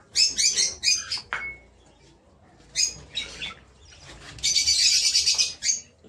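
Caged birds calling: a run of sharp, high chirps in the first second, a couple more about three seconds in, then a raspy, buzzing call lasting about a second near the end.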